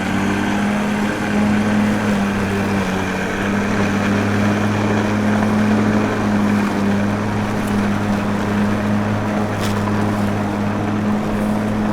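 A small motor running steadily, giving an even hum with a constant pitch throughout.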